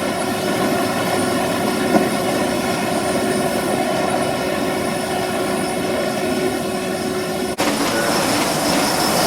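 G-scale model train running on the track: a steady whirring hum with a high, even whine over it, which changes abruptly about seven and a half seconds in.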